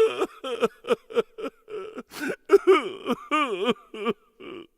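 A person's voice in quick short bursts, the pitch swooping up and down, cutting off shortly before the end.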